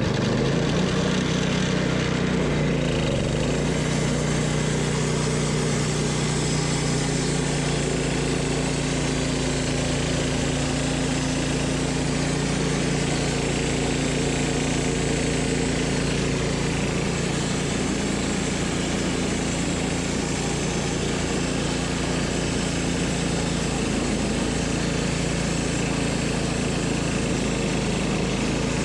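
Engine of a Wood-Mizer LT10 portable bandsaw mill running steadily. Its pitch shifts during the first few seconds, then holds constant.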